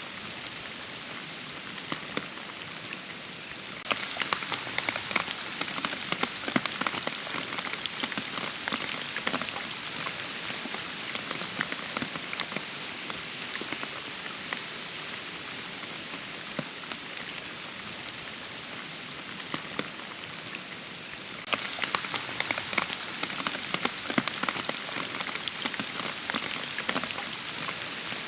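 Steady rain with many distinct drops pattering. It grows heavier and louder about four seconds in, eases back over the middle, and grows heavier again about two-thirds of the way through.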